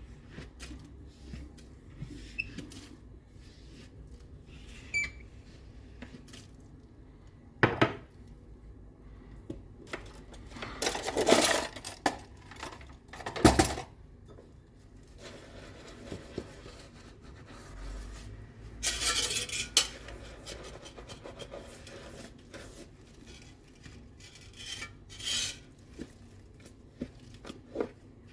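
Dishes and cutlery being washed by hand: scattered clinks and knocks of plates and utensils, the sharpest about eight and thirteen seconds in, with a few longer noisy stretches between them.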